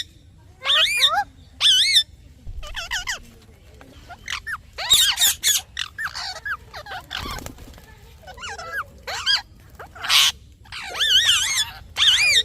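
A parrot making a run of short, warbling chirps about once a second, the pitch wobbling up and down within each call, with one harsher screech about ten seconds in.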